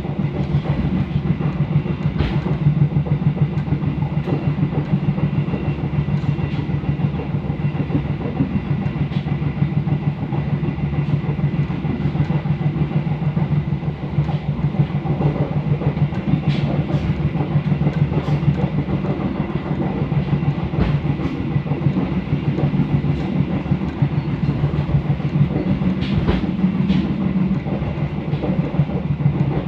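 Pariaman Express passenger train running along the line: a steady rumble with scattered sharp clicks of the wheels over the rails.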